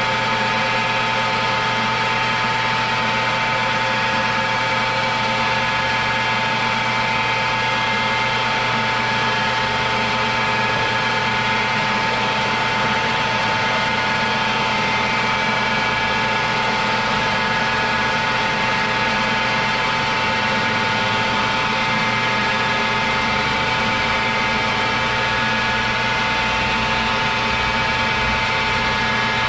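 A metalworking machine tool running steadily under power: a constant motor and gear hum with several fixed whining tones, unchanging throughout.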